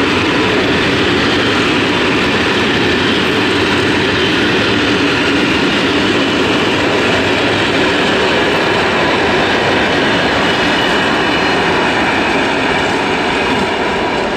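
Freight train of bulk tank wagons and hopper wagons rolling past on the rails: a steady, loud rush of wheels and rail clatter, easing slightly near the end as the last wagons move away.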